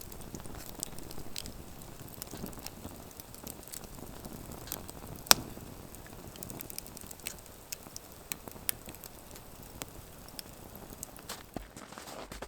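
Wood fire crackling, with irregular sharp snaps and one loud pop about five seconds in.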